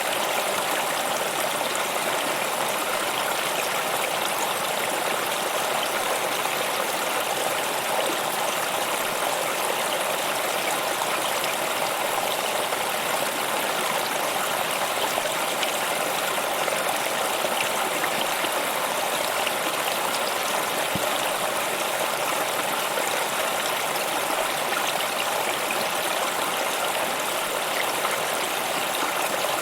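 Flowing stream water, a steady even rushing and babbling with no change in level.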